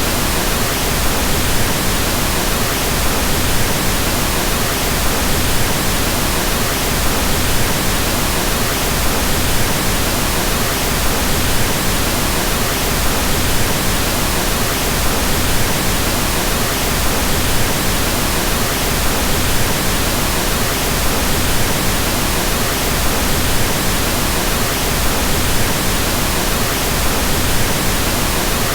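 Steady pink noise: an even, unchanging hiss with more weight in the low end than white noise.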